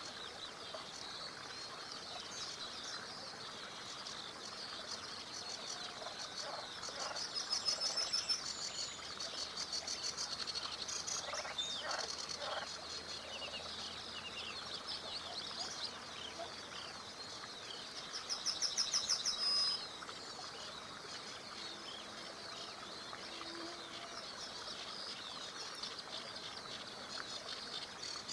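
Several small songbirds singing and chirping together, with two loud, fast trills, one about seven seconds in and another near nineteen seconds, over a faint steady rush of a small river.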